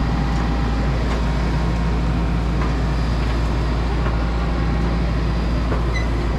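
Steady low mechanical drone with a constant hum, unchanging in level, like a machine running continuously close by.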